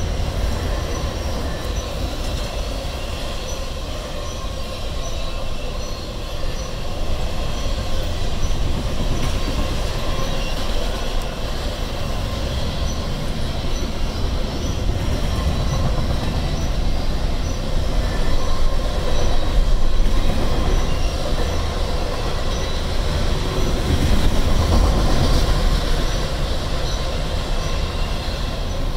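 Double-stack intermodal freight cars rolling past at speed: a steady rumble of steel wheels on the rails, a little louder about two-thirds of the way through.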